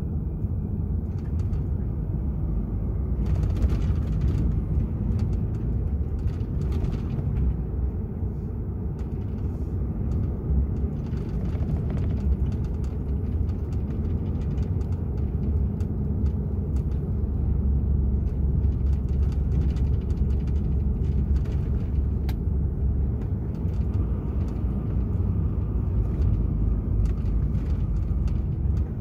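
DAF XF 480 truck running: a steady low rumble of engine and road noise, with a few faint clicks and knocks over it.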